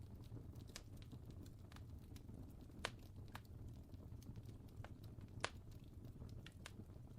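Wood fire crackling: scattered small irregular snaps, with two louder pops about three and five and a half seconds in, over a low steady rumble.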